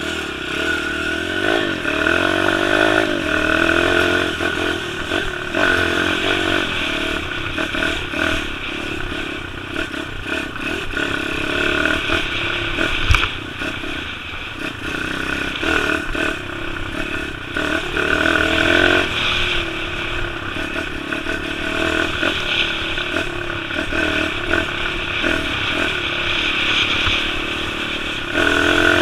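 Small-displacement pit bike engine running continuously and repeatedly rising and falling in pitch as the throttle opens and closes, with rattling and scraping. A single sharp knock comes about halfway through.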